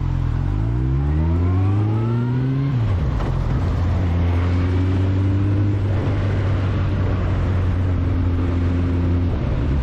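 Motorcycle engine accelerating, its pitch climbing for about three seconds before dropping sharply as it shifts up, then running steady at cruising speed, with rushing wind noise.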